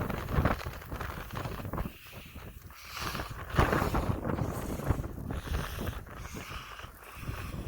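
Storm wind buffeting the microphone in uneven gusts, a rumbling rush that swells and drops.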